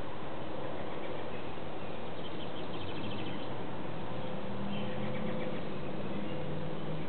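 Songbirds chirping in quick runs of short high notes, about two and a half seconds in and again around five seconds, over a steady background hiss. A low steady hum comes in about halfway.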